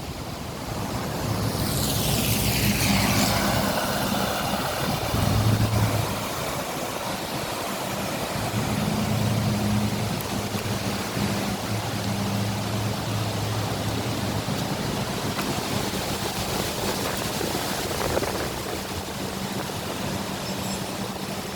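A vehicle engine runs with a low steady hum under a constant rush of wind noise. About a second in, a falling whoosh sweeps down over two or three seconds, as if something passes close by.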